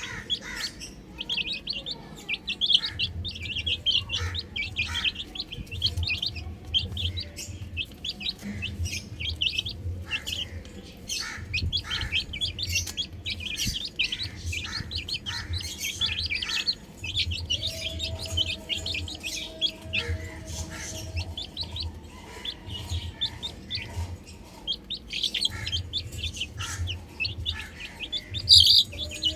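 Baby chicks chirping: a steady stream of short, high cheeps, with a low hum coming and going underneath.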